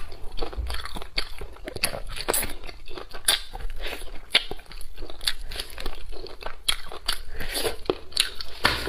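A person biting and chewing crispy fried fish close to a clip-on microphone: irregular crunches and clicks, several a second.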